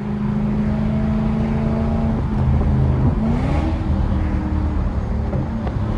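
Lexus GS430's 4.3-litre V8 running with its catalytic converters removed. The engine note holds steady, dips slightly, then rises in pitch about three seconds in and holds at the higher note.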